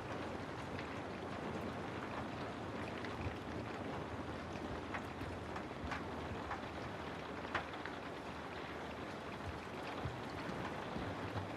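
Steady rain falling on a house: an even hiss with scattered sharper taps of single drops striking, the loudest about two-thirds of the way through.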